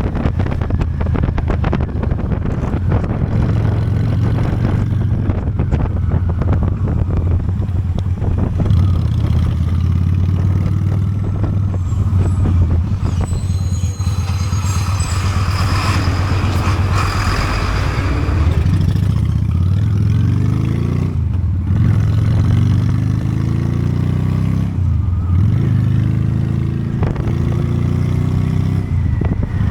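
Honda Steed V-twin motorcycle engine running steadily while riding. In the second half its note rises and drops back several times as it accelerates through the gears.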